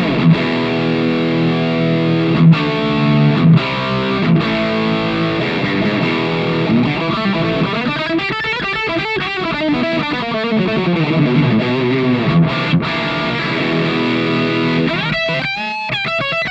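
Electric guitar played through the Mooer Red Truck's distortion section at maximum gain with the mid boost on, giving a heavily distorted tone. It plays ringing chords first, then bent lead notes.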